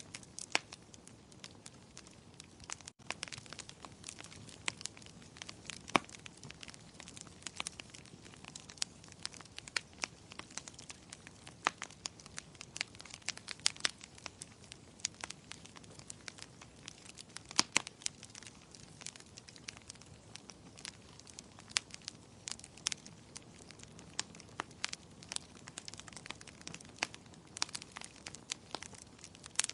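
Wood fire burning in a fireplace, crackling and popping with many irregular sharp snaps over a soft low rumble of flame.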